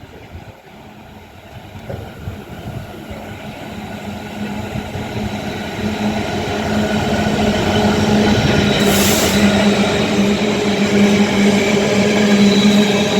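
Diesel freight train approaching, most likely headed by a Class 66 locomotive, its steady engine drone growing louder over several seconds, then running on loudly. A brief hiss comes about nine seconds in.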